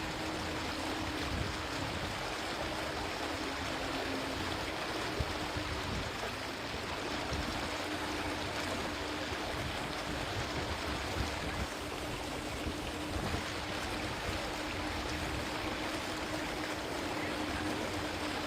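Steady rush and slosh of floodwater being moved through, with a faint steady hum underneath.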